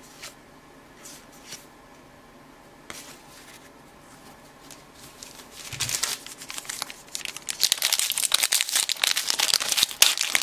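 Plastic wrapper of a baseball card pack being torn open and crinkled, starting about halfway through and getting louder; before that, only a few soft handling clicks.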